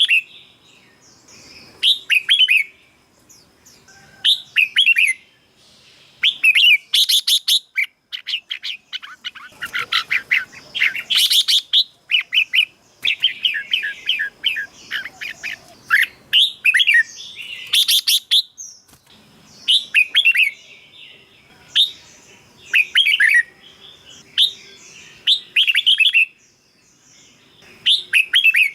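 Red-whiskered bulbul singing: short, bright, warbling phrases repeated every couple of seconds, with a busier run of song through the middle.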